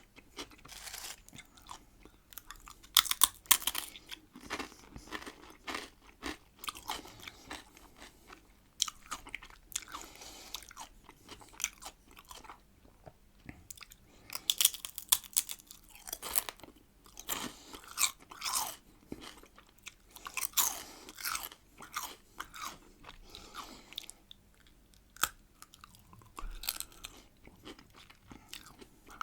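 Close-up bites and chewing of crunchy salted pickled cucumbers, with irregular loud crunches between quieter wet chewing.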